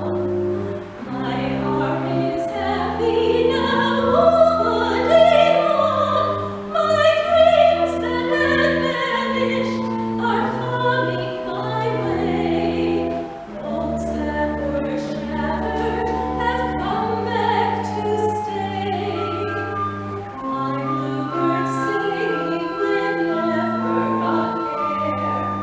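A vocal soloist singing with vibrato to organ accompaniment. The organ holds steady chords and bass notes that change every second or two.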